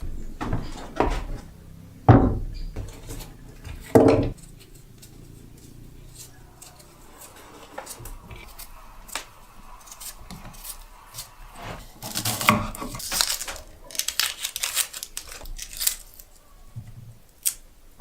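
Hard objects being handled: a few heavy thuds in the first four seconds, then scattered light clicks and a run of sharp clattering about twelve seconds in.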